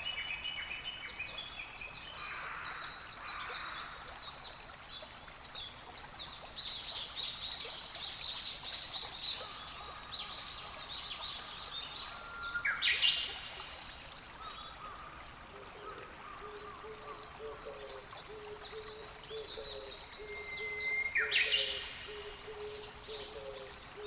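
Wild birds calling and singing on a spring shoreline: a dense run of quick, high twittering song fills the first half. Two sharp upward-sweeping calls stand out, one about halfway and one near the end.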